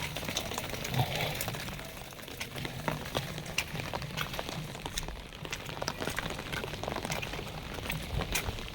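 Rain falling steadily, with frequent separate drops ticking sharply on nearby surfaces.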